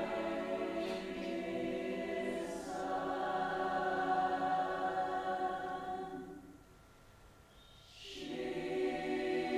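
Voices singing long held chords without accompaniment, with soft hissing consonants. The chord shifts about two and a half seconds in, dies away around six seconds in, and a new chord swells in near the end.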